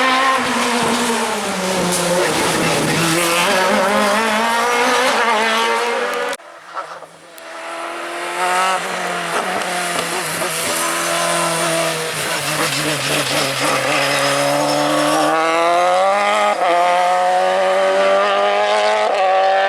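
Race car engine at full effort on a hill climb, its pitch falling and climbing repeatedly through gear changes and corners. It breaks off abruptly about six seconds in, then builds again.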